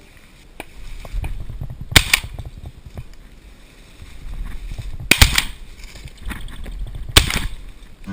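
Shotgun shots fired at pheasants in the field: three sharp, loud reports a few seconds apart, about two, five and seven seconds in, with quieter outdoor noise between them.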